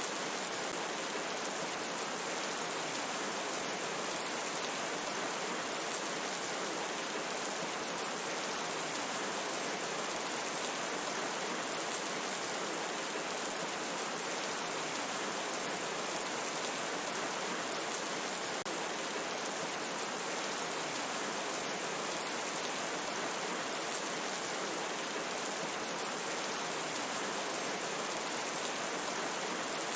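Steady rain falling in a forest, a dense, even hiss with no distinct drops or pauses.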